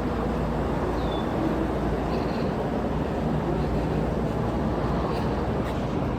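Steady background noise with a low rumble and no distinct events.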